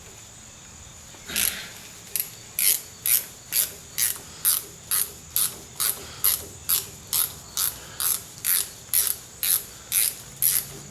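Hand ratchet wrench clicking in a steady rhythm, about two strokes a second, as a nut is undone.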